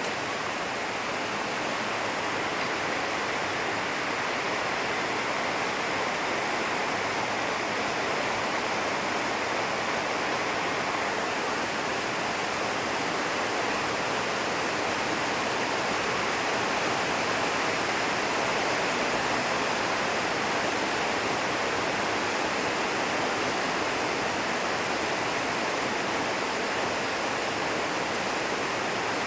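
Heavy rain from a typhoon pouring down in a steady, unbroken rush.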